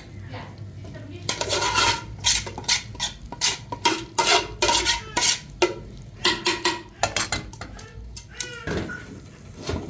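Dishes and utensils clinking, a quick irregular run of short knocks with a brief ring, thinning out near the end.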